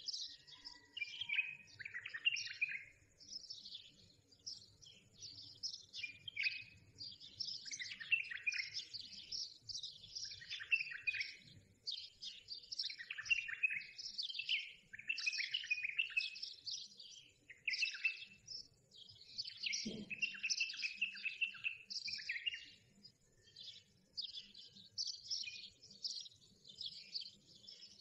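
Small birds chirping and twittering without a break: many short, overlapping calls, lots of them sliding downward in pitch. A single soft low knock comes about twenty seconds in.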